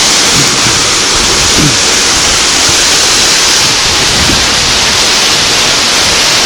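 Loud, steady rush of water from a waterfall or cascade, a constant hiss with no pauses.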